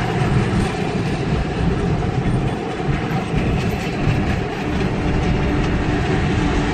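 Arkansas & Missouri Railroad passenger train rolling past, a steady loud rumble of wheels on the rails.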